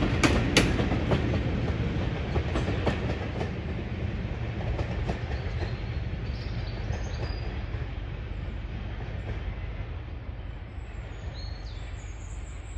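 Passenger coaches of a diesel-hauled train going by, their wheels clicking over the rail joints, with the clicks thinning out over the first three seconds or so. After that the train's rumble fades steadily as it draws away.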